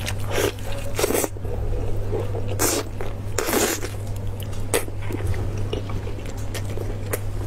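Close-miked biting and chewing of a chunk of braised beef in sauce: a run of separate bites and chews, some sharper clicks among them, over a steady low hum.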